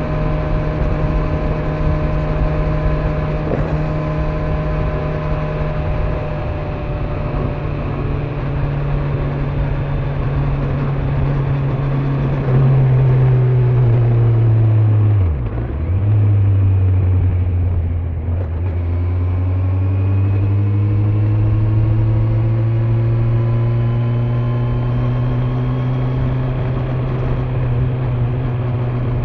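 Kawasaki Z900's inline-four engine with stock exhaust, running under way. Its revs hold fairly steady at first, dip sharply and recover about halfway through, then rise steadily as the bike accelerates.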